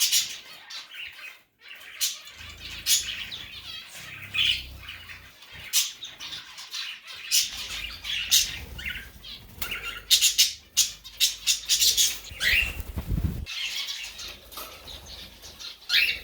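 A pet bird flapping its wings in short flurries, with a few brief high chirps.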